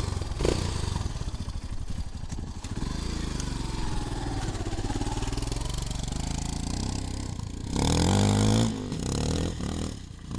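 A 250 cc enduro motorcycle engine running at low revs, its pitch wandering, with one short, louder blip of the throttle about eight seconds in.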